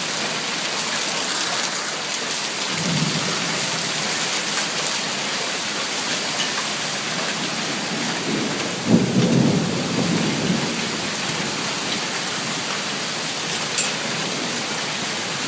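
Heavy thunderstorm rain pouring steadily, with thunder rumbling twice: a low rumble about three seconds in and a longer, louder one from about eight to ten and a half seconds.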